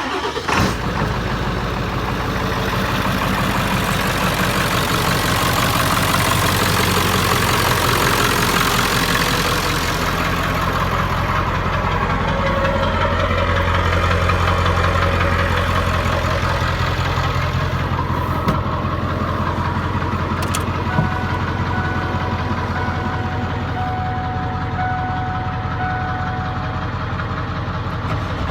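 Ford 7.3 PowerStroke turbo-diesel V8 cold-starting at about 40 °F: it fires and catches right away, then settles into a steady diesel idle. A harsh high-pitched clatter is strong for the first ten seconds or so, then fades.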